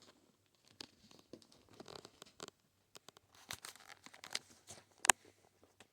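Young kittens scrabbling and moving about, a run of soft rustling, scratching and small clicks, with one sharper click about five seconds in.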